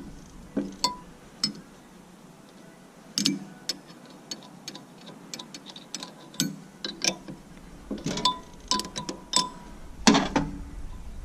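Irregular sharp metallic clicks and clinks of a wrench working the JIC hydraulic hose fittings on a loader's control valve, some of them briefly ringing.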